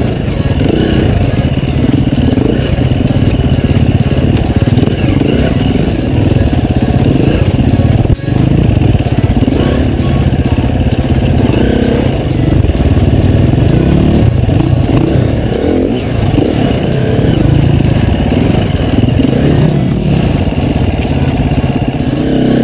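Off-road enduro motorcycle engine revving up and down as the bike is ridden, with background music. The sound drops out briefly about eight seconds in.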